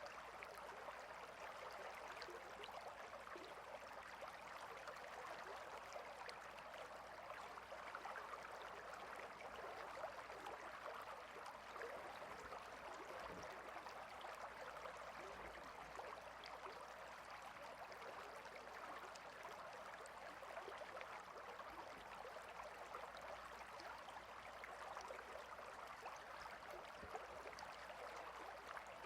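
Faint, steady babbling of a small stream flowing over stones.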